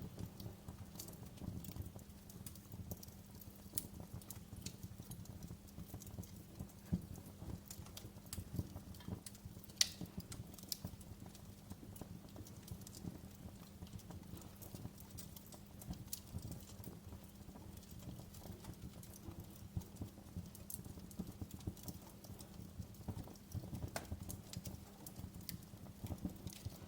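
Wood fire crackling in a fireplace: irregular sharp pops and snaps over a low, steady rumble, with a louder pop about ten seconds in.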